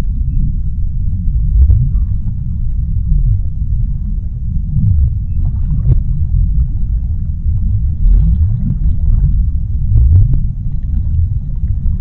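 Deep underwater ambience: a steady low rumble with repeated low moaning tones that slide up and down in pitch, and a few faint clicks.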